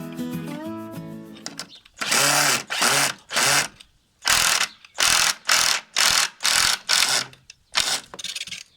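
Background guitar music fades out, then about ten short rasping strokes follow in uneven groups, each under half a second long.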